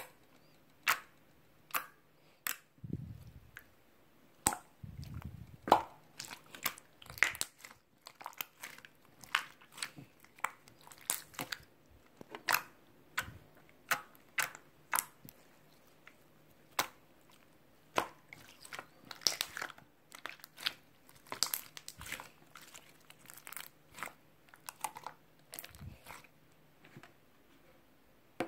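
Many short, irregular clicks and taps, with a few dull low thumps about three and five seconds in.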